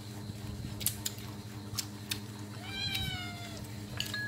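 A domestic cat meows once, a drawn-out call of about a second near the middle, over a steady low hum, with a few sharp clicks before it.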